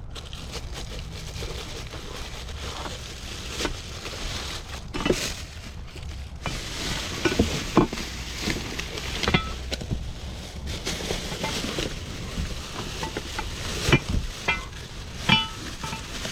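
Hard objects, some metal or glass, being handled and knocked together, clattering and clinking with short ringing tones, over a steady low hum.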